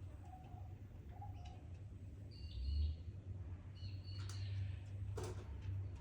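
Birds calling in Australian bushland: two short, low whistled notes, then several higher chirps. Two sharp snaps come in the second half, over a steady low rumble that swells briefly before the middle.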